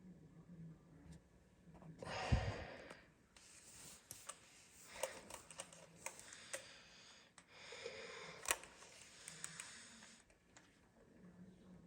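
Footsteps crunching through deep fresh snow: uneven scrunches with sharp clicks, and a heavier thump about two seconds in.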